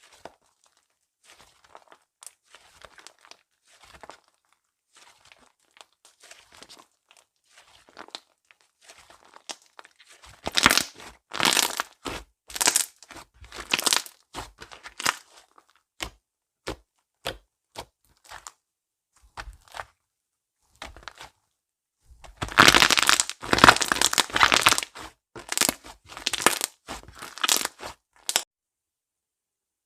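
Hossi slime being squished and stretched by hand, giving sticky crackling and popping sounds. Faint scattered clicks at first, louder crackling bursts from about ten seconds in, and a dense, loud run of crackling in the last third that stops shortly before the end.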